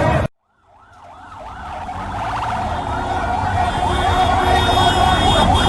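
Emergency siren warbling in quick rising-and-falling sweeps, fading in after an abrupt cut to silence and growing steadily louder, the sweeps quickening, with a low vehicle rumble underneath.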